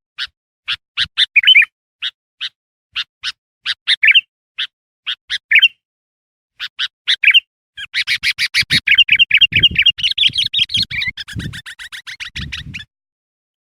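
Sooty-headed bulbul (kutilang) singing: a string of short sharp chirps broken by brief warbled phrases, then a fast chattering run of notes from about eight seconds that stops near the end. It is a lure call of the kind used to draw in wild bulbuls.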